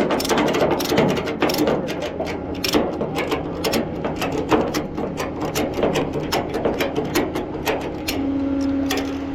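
Ratchet tie-down strap being cranked to secure a car on a tow truck bed: a run of sharp ratchet clicks, several a second. A steady hum starts near the end.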